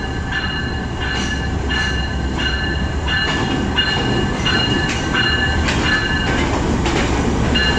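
Passenger train rolling slowly into the platform: a steady low rumble of the coaches with rail-joint clacks and a high-pitched wheel squeal that pulses on and off about every half second.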